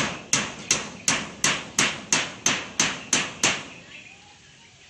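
Hammer blows in a steady rhythm, about three a second, each a sharp ringing strike, stopping about three and a half seconds in.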